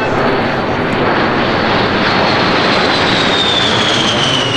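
Airplane engine noise, loud and steady, with a whine that falls in pitch near the end as the aircraft goes by.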